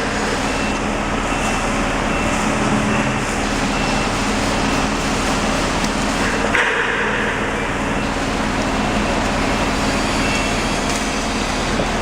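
Truck engine running steadily with a low hum, its sound changing slightly about six and a half seconds in.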